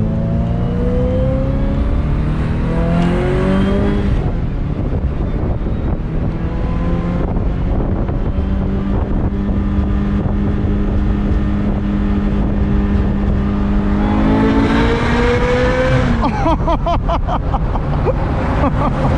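Ferrari F355 F1 GTS's 3.5-litre V8 with a Tubi exhaust, heard from the open cockpit. It revs up hard and drops suddenly at an automated-manual gearshift about four seconds in, holds a steady pitch for several seconds, climbs again, then falls about three seconds from the end with a rapid crackle.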